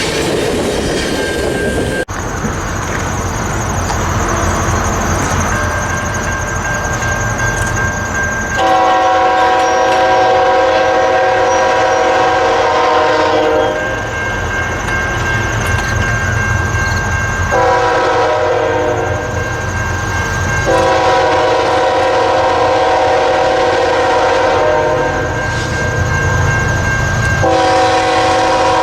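Diesel freight locomotive horn sounding four long blasts of several seconds each, a multi-note chord, over the steady rumble and wheel clatter of the passing train.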